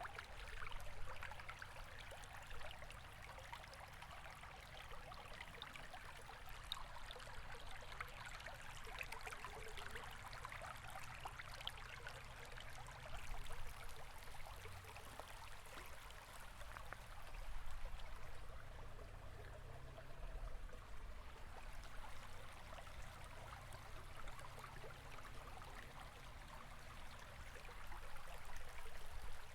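River water flowing steadily over stones, a continuous babbling rush with fine splashing, swelling slightly now and then.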